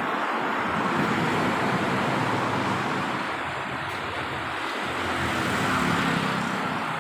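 Road traffic noise with wind, a steady rush that swells twice, as vehicles pass.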